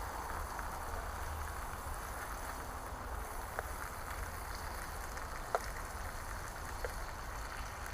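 Steady hiss of food sizzling in a pan over a campfire, with a few faint sharp crackles, over a low rumble of wind on the microphone.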